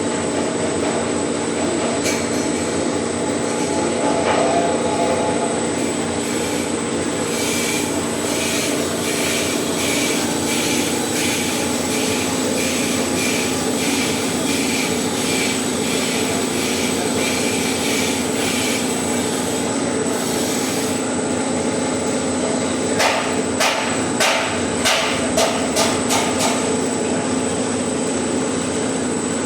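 Workshop machine running with a steady motor hum. From about seven seconds to twenty there is a light ticking, about two a second. About twenty-three seconds in comes a run of sharp knocks.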